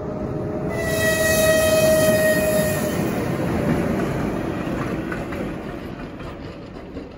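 A train passing by. Its horn sounds a steady tone from about a second in for about two seconds, while the rumble of the train swells and then fades away.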